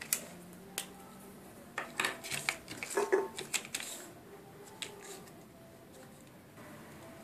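Irregular clicks and clattering knocks of small hard objects being handled, bunched together between about two and four seconds in.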